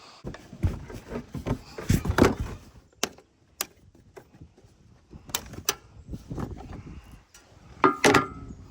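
Hands working on parts: irregular sharp clicks and knocks with low thuds between them, and a quick cluster of clicks near the end.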